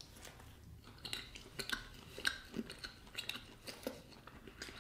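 A person chewing a bite of banitsa, a flaky cheese-filled filo pastry, heard as faint, irregular small crackles and mouth clicks.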